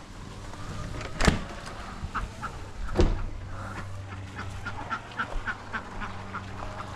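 Two sharp knocks about two seconds apart, with a run of short, evenly repeated calls from barnyard poultry over a steady low hum.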